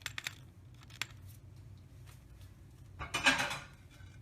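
Manual coffee grinder being adjusted by hand: a few small clicks as the grind setting is tightened toward fine, then a short crunching rasp about three seconds in.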